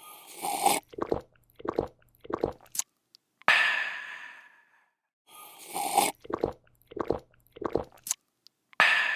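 A person slurping a drink, gulping three times, then letting out a long, breathy "aah" of refreshment. The sequence plays twice, the second "aah" starting near the end.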